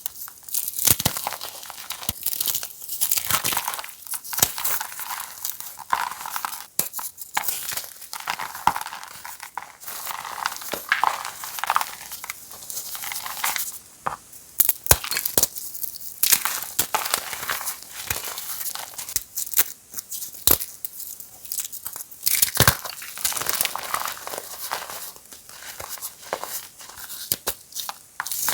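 Blocks of reformed gym chalk being crushed and crumbled, giving a continuous, irregular run of crisp crunches, crackles and creaks.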